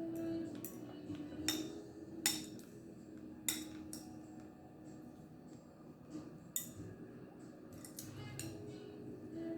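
Eating snow crab: a handful of sharp, scattered clicks and clinks as crab shell is cracked and handled over a plate, with soft music underneath.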